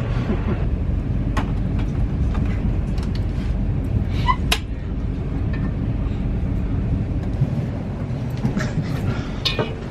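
Passenger train running along the track, heard from inside the carriage: a steady low rumble with a few sharp clicks, one of them about four and a half seconds in.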